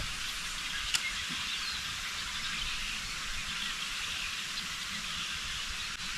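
Steady outdoor background hiss, with a faint tick about a second in.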